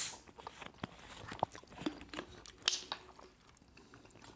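Quiet close-miked eating sounds: scattered chewing and mouth clicks. A plastic water bottle's cap is twisted open, giving a short hiss at the start.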